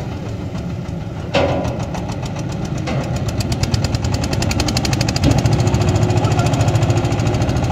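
An engine running with a fast, even clatter that gets louder about three seconds in and again about five seconds in, with a sharp clank about a second and a half in.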